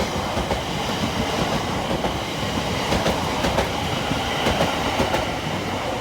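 Greater Anglia class 720 electric multiple unit passing through the station without stopping: a loud, steady rush of wheels on rail, with several sharp clicks as the wheels cross rail joints.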